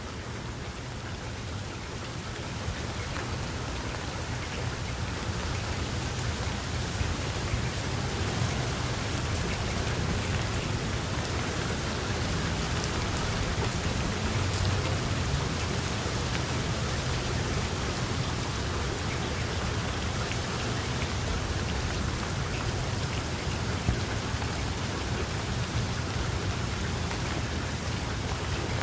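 Steady heavy rain with scattered individual drop hits and a low rumble underneath, growing a little louder over the first several seconds and then holding even.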